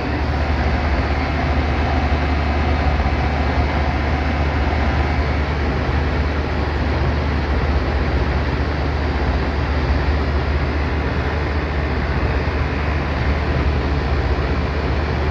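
Old Lennox air-conditioning unit running with a steady low hum, now working after its burnt wire connector was replaced.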